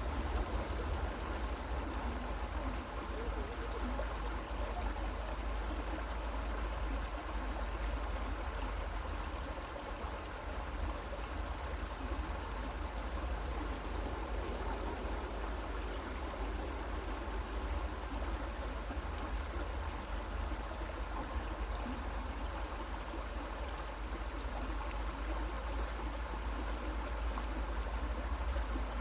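Creek water running and babbling steadily, with a constant low rumble underneath.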